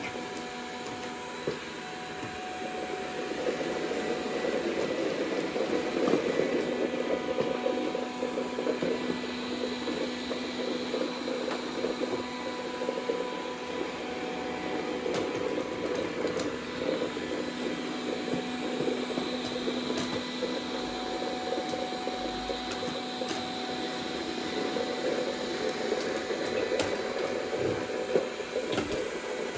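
Dreame D10 robot vacuum running: a steady motor hum and whine, with scattered sharp clicks.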